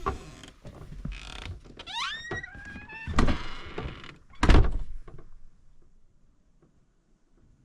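A cabin door creaking on its hinges with rising squeaks, then two heavy thunks as it is closed, the second the louder; after that it goes quiet.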